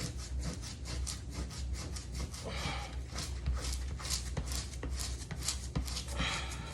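Gloved fingers rubbing sticker adhesive off the surface of a new refrigerator in quick repeated scrubbing strokes, about three to four a second, lifting the glue little by little. A steady low hum runs underneath.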